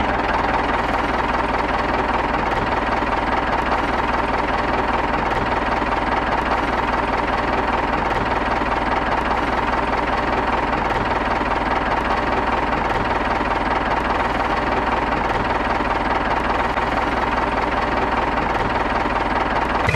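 Diesel tractor engine sound effect, running steadily at an even pace with a knocking beat.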